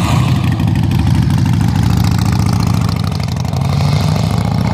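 A Cadillac's engine running at low revs as the car pulls away, a steady deep exhaust note with an even pulsing beat.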